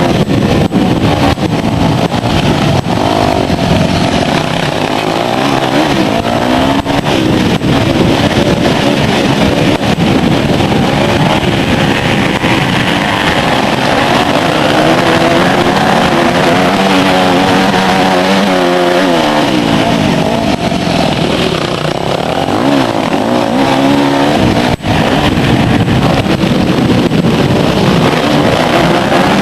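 Motocross motorcycle engines revving hard, the pitch repeatedly rising and falling with throttle and gear changes, over a steady rushing noise.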